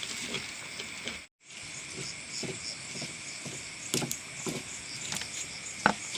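Night insects chirring steadily, with scattered faint clicks and knocks and one sharper click near the end. The sound cuts out briefly about a second in.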